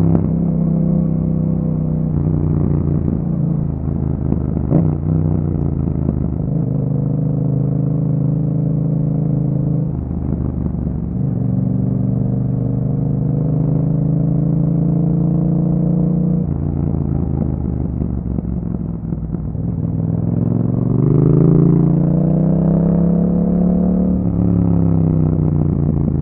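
2021 Yamaha MT-07's parallel-twin engine running through an Akrapovic exhaust while riding. The engine note climbs and drops with the throttle and gear changes, and pulls up strongly in pitch about three-quarters of the way through.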